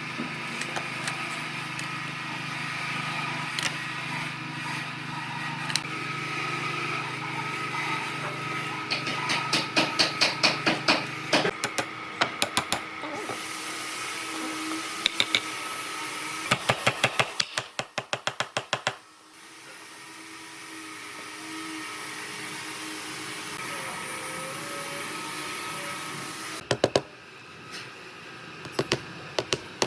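Woodworking tool noise: a steady machine hum, with several bursts of rapid knocking at about six strikes a second.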